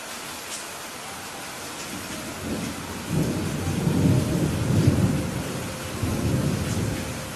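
Steady rain with a rolling rumble of thunder that builds about two seconds in, swells twice, and dies away near the end.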